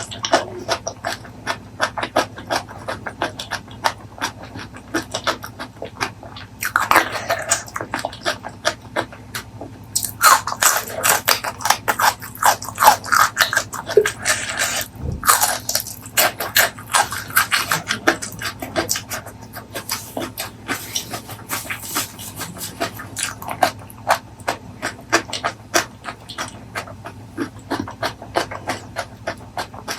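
Close-miked eating: wet chewing and lip-smacking in a dense, irregular run of clicks, louder for a few seconds in the middle, over a faint low hum.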